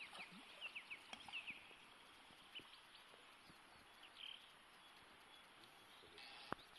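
Faint wild bird calls: a quick run of short, sharp chirps in the first second and a half, then a few scattered ones, over a low steady hiss of the flowing river. A single click sounds near the end.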